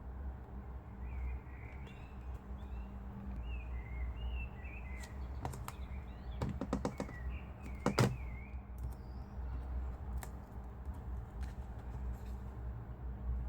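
A small bird chirping in quick, twittering phrases, with a run of sharp clicks and taps near the middle, the loudest one about eight seconds in, over a steady low hum.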